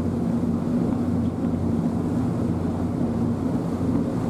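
Ferry's diesel engine droning steadily under way, heard from aboard, with a constant low hum and the rush of the boat moving through the water.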